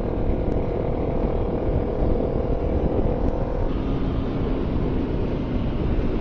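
Motorcycle engine running at road speed under loud wind rush; about two-thirds of the way in the engine note drops to a lower pitch.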